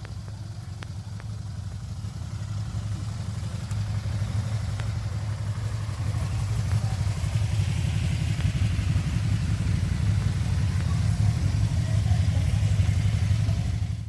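Can-Am Spyder three-wheeled motorcycle engine running: a low pulsing rumble that grows louder over several seconds, then cuts off suddenly at the end.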